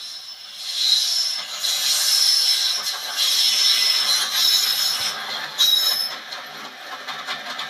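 A Class 52 Western diesel-hydraulic locomotive and its train running past, with high squealing wheel tones coming and going, heard through a television's speaker. It gets louder about a second in.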